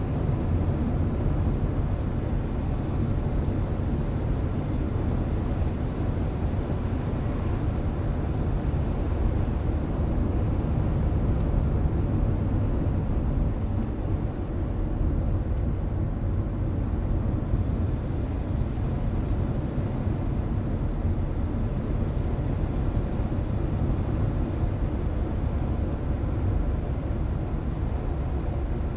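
Steady road noise of a car driving at an even speed, heard from inside the cabin: tyre rumble and engine drone with no changes in pace.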